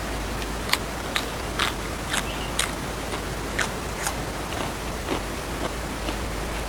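Someone eating: short, crisp bite and chewing clicks at irregular intervals, about ten in all, over a steady background hiss.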